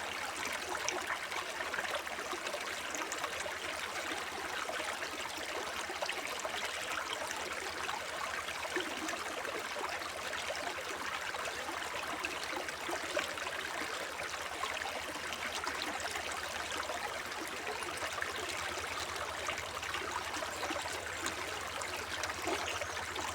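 Forest brook babbling over stones: a steady, even rush of shallow running water with small trickles and splashes.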